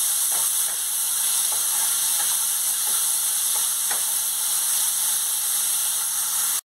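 Chopped tomatoes and onions frying in hot oil in a nonstick kadai, a steady sizzle while a spatula stirs them, with a few light scrapes against the pan. The sound cuts off abruptly near the end.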